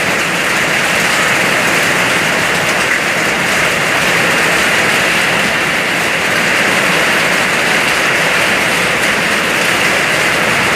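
Hailstorm: heavy rain and hail falling in a steady, dense hiss.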